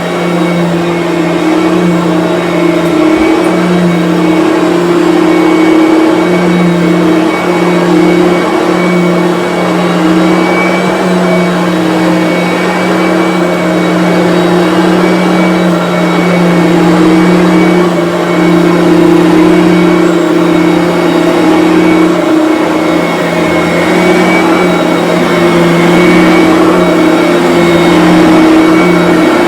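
Bissell BigGreen Commercial upright vacuum cleaner running steadily with a high motor whine as it is pushed over carpet.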